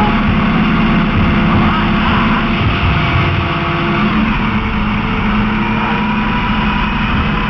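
Ford Crown Victoria police car driving: steady engine hum and road noise.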